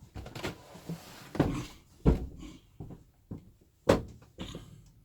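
A few separate knocks and bumps with faint rustling between them, the loudest about two seconds in and near four seconds.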